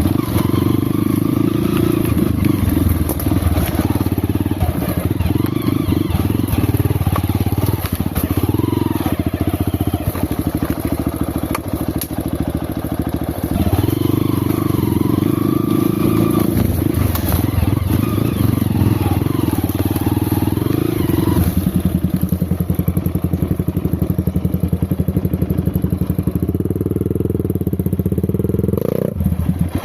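Off-road motorcycle engine running at low speed, its pitch rising and falling with the throttle. About two-thirds through it settles into a steadier note, and a short rev rises just before the end.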